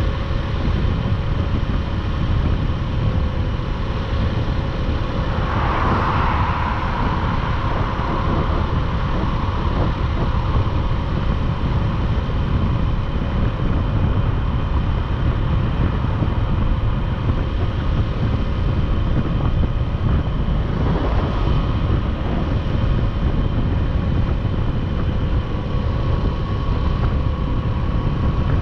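Motorcycle riding at a steady road speed: the engine drones under heavy wind and road noise on the microphone. There is a brief swell of noise about six seconds in.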